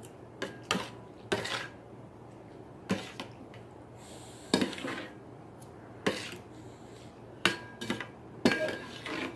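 A utensil clinking and knocking against a bowl, with about a dozen sharp, irregular clinks, some ringing briefly, as instant noodles are mixed in their red seasoning.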